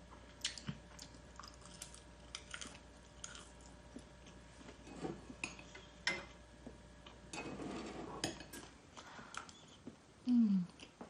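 Eating sounds: utensils clicking against a dish and crunchy chewing of fried chicken, in scattered bursts. About ten seconds in comes a short, loud, low vocal sound from the eater that falls in pitch.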